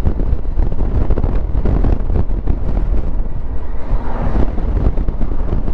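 Wind rushing over a helmet-mounted microphone on a moving Honda Africa Twin adventure motorcycle, with engine and road noise underneath, steady throughout.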